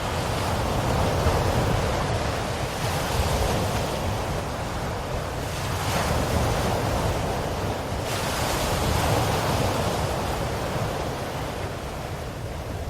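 Ocean waves washing onto a shore, a steady rush of surf that swells and eases with each wave every few seconds.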